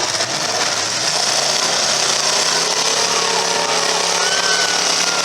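Several demolition derby car engines running together, loud and continuous, with small shifts in pitch as they rev.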